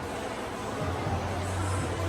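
Shopping-mall background noise: a steady wash of indistinct crowd sound with a low hum that grows stronger about a second in.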